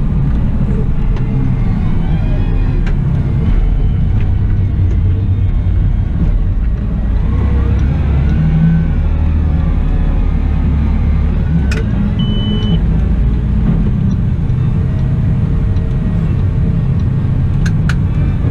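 Caterpillar 972M XE wheel loader running with a steady low engine rumble while at work. A short high beep sounds about twelve seconds in, and a few sharp clicks come near the end.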